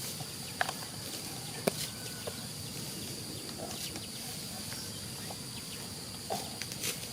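Steady high-pitched insect drone, with a few scattered sharp clicks and knocks.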